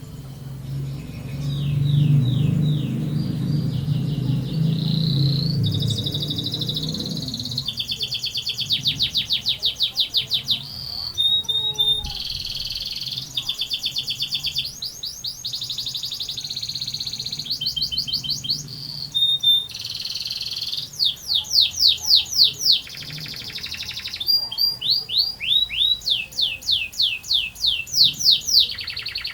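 Domestic canary singing energetically in long rolls: rapid trills of quickly repeated high notes, one roll after another, each shifting to a new note pattern every second or two.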